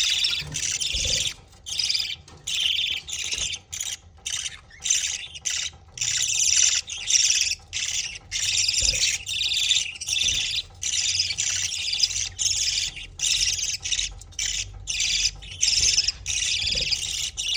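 Budgerigar chicks giving rapid, harsh, high-pitched begging squawks in quick bursts with short breaks, as the albino father budgie feeds them.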